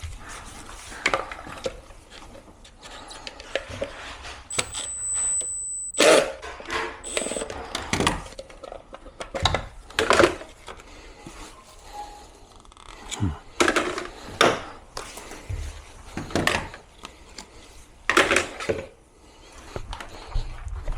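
Air conditioner parts being handled and worked loose during disassembly: irregular knocks, taps and clatter.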